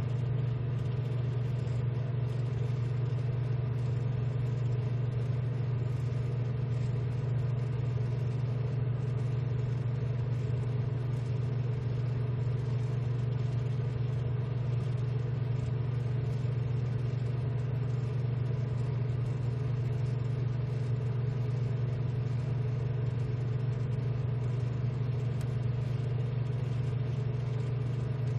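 A steady machine hum, low and even, with no change in pitch or level.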